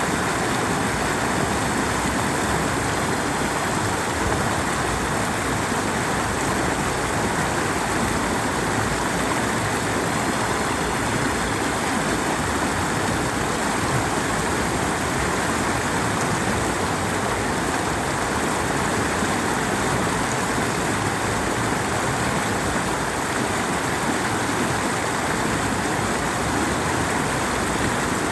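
Stream water running over rocks and a small waterfall: a steady, even rush.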